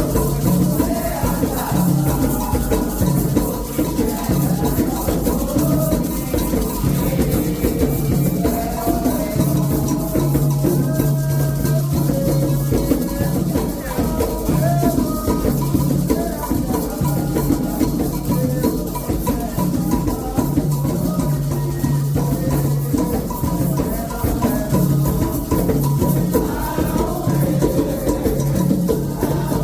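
Candomblé ritual music: shaken rattles and hand drums keep a steady rhythm under group singing.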